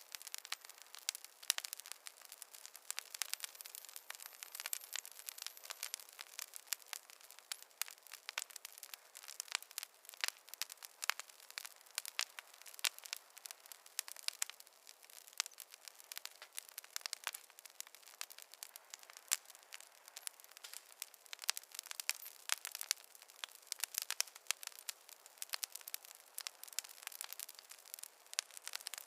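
Wood fire crackling in a fireplace: a steady scatter of small sharp pops and snaps over a faint hiss.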